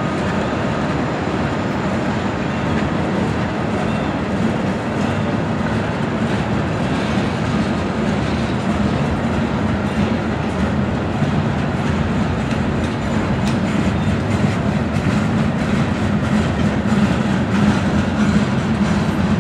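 Freight train flatcars rolling past: steel wheels running on the rails with a steady rumble and clickety-clack, growing a little louder near the end.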